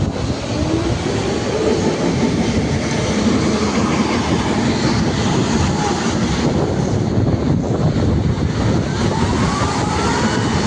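Heavy diesel machinery running continuously: a dense, loud rumble and clatter with a few faint squeals near the end.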